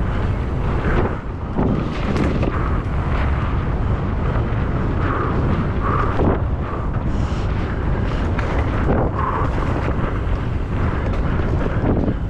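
Heavy wind buffeting the microphone of a mountain biker descending at speed, with a constant low rumble and scattered knocks and rattles from the bike over rough ground.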